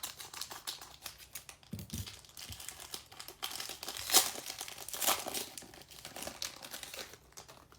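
Trading card pack wrapper being crinkled and torn open by hand, a dense run of crackles with the sharpest bursts about four and five seconds in.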